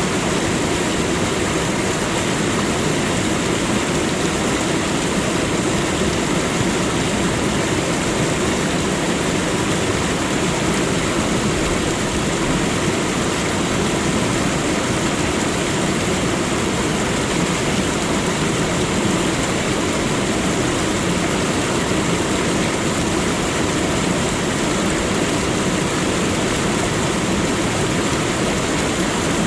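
Waterfall: water falling and rushing in a steady, unbroken roar with no change in level.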